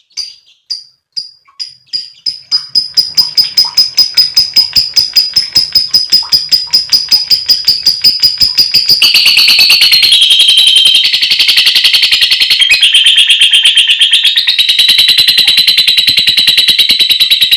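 Lovebird giving a long 'ngekek' chatter: a rapid run of high, sharp chirps that speeds up from a few a second into a fast, continuous trill, dropping slightly in pitch about nine seconds in. This is the call the bird uses to call to rivals and mates.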